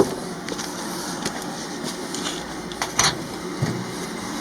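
Heating boiler running with a steady mechanical hum, with a couple of short clicks about three seconds in.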